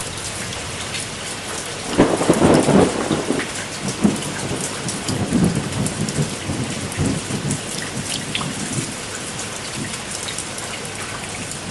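Heavy rain falling steadily, with a sudden thunderclap about two seconds in whose rumble rolls on for several seconds before fading back to the rain.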